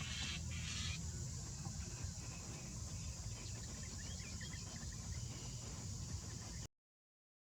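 Outdoor ambience with a steady hiss and low rumble and a few faint bird chirps, cutting off abruptly to silence near the end.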